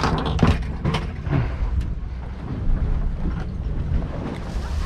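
A party boat's engine runs with a steady low rumble, and several sharp clicks and knocks come in the first second and a half.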